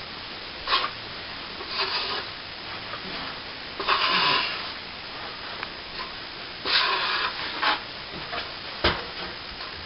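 Plasterer's trowel lightly floating setting cornice cement on a plasterboard ceiling patch: a series of irregular scraping strokes, about six in all.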